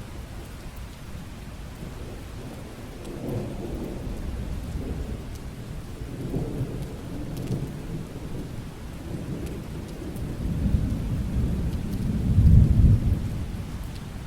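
Steady rain with rolling thunder that rumbles up several times, the loudest roll coming near the end.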